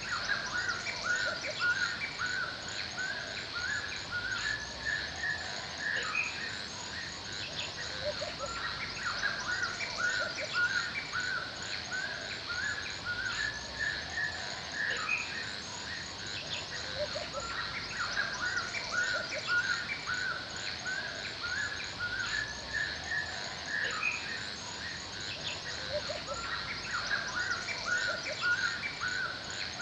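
Forest ambience: birds chirping and calling over and over in quick short notes, over a steady high-pitched hiss with fast ticking.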